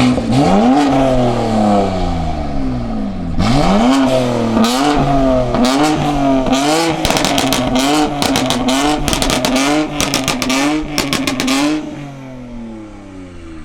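A high-revving performance engine revved hard again and again, its pitch climbing and dropping about once a second, with a rapid run of sharp crackles through the middle. It fades down near the end.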